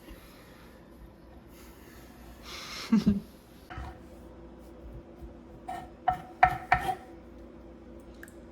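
Kitchen cooking noises: a utensil scrapes and knocks against a pan about three seconds in, then metal clinks against cookware about four times in quick succession.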